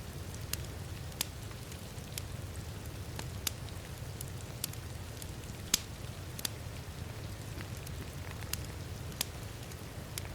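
Wood fire crackling, with a dozen or so sharp irregular pops, the loudest about six seconds in, over a steady low rumble and a soft hiss of rain.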